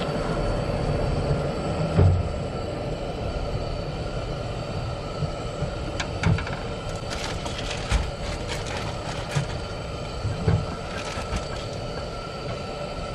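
Steady mechanical hum with a few constant high tones, broken by scattered light knocks and clicks, the loudest about two seconds in.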